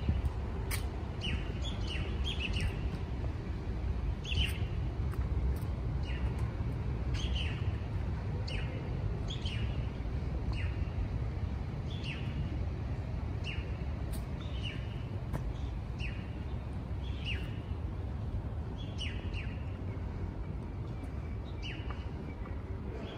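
A bird repeating short, downward-sliding chirps about once a second, over a steady low background rumble.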